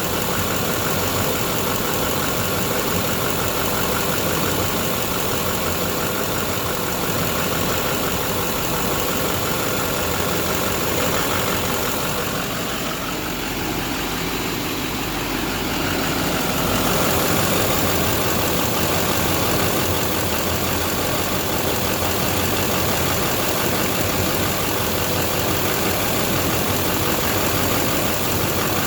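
6.6 L LBZ Duramax V8 turbodiesel idling steadily.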